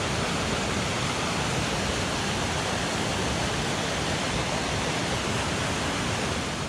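Mountain headwater stream rushing over rocks: a steady, even wash of water noise.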